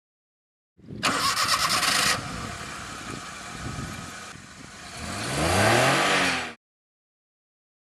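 Small car engine being cranked by the starter, catching, then revved up with its pitch rising before the sound cuts off suddenly.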